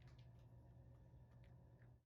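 Near silence: faint room tone with a steady low hum and a few very faint ticks.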